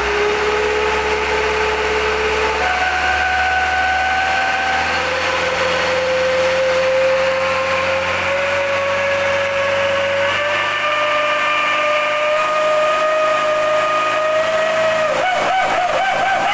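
Mitsubishi Canter truck fitted with a 'serigala' (wolf) whistle exhaust, giving a steady howling whistle over the engine. The pitch climbs in steps as the revs rise, and near the end it starts to waver up and down.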